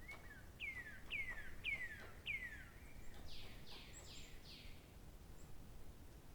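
A songbird calling: four quick whistled notes, each sliding downward, about half a second apart, followed by four higher, rougher descending notes. Nothing follows them.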